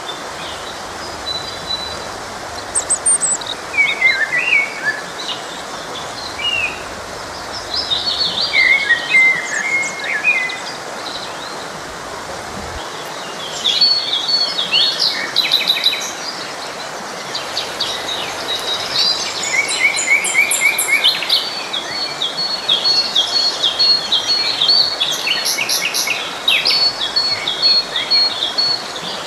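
Several songbirds singing and chirping over the steady rush of a forest stream. The birdsong grows busier about halfway through, with a rapid run of repeated high notes near the end.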